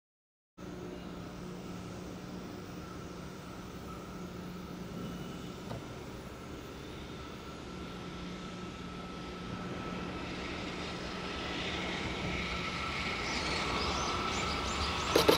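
Approaching freight train hauled by an EF210 electric locomotive: a distant rumble that grows steadily louder as it nears. A loud, evenly pulsing clatter of the train starts just before the end.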